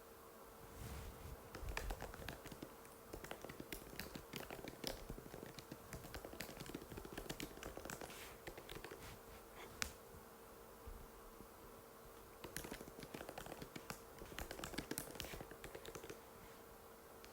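Typing on an Apple MacBook butterfly keyboard: runs of quick, light key clicks, with a pause of a few seconds around the middle. A steady faint hum runs underneath.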